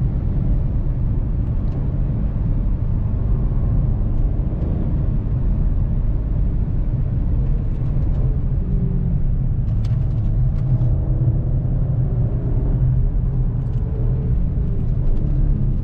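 Steady low rumble of a Volkswagen CC 3.6 FSI on the move, its 3.6-litre VR6 engine mixed with road and tyre noise, with faint wavering engine tones in the second half.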